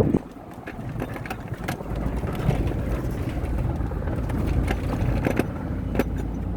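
Chevrolet Tahoe driving slowly: a low engine and road rumble that grows louder about two seconds in, with a few short knocks and rattles.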